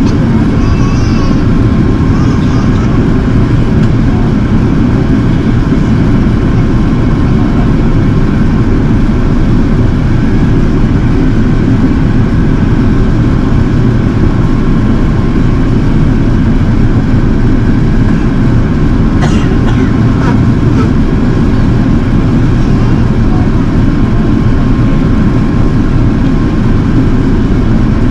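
Steady low rumble of engine and airflow noise inside the cabin of an Airbus A380 airliner, with a faint steady tone above it. A few brief clicks come about two-thirds of the way through.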